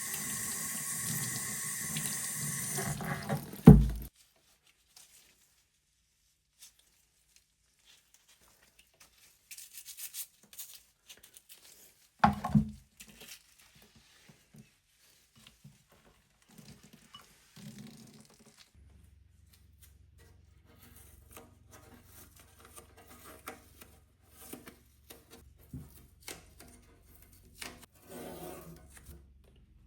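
Tap water running into a sink for about the first three and a half seconds, ending in a loud knock; then scattered small clicks and knocks of parts being handled, with a second loud knock about twelve seconds in and a faint low hum in the second half.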